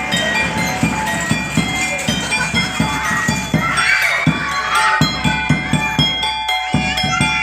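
Topeng monyet street-show percussion: a drum beaten in a fast, even rhythm of about four strokes a second over steady ringing metallic tones. A wavering high sound rises above it about halfway through and again near the end.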